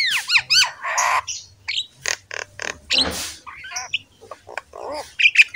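Birds squawking and chirping in a busy, irregular run of short calls and sharp clicks, with a few swooping calls mixed in.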